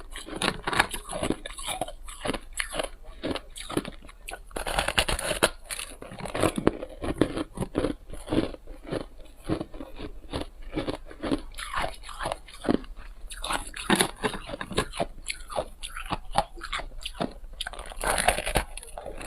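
Close-up chewing of crunchy shaved and refrozen ice: a dense, irregular run of sharp bites and crunches.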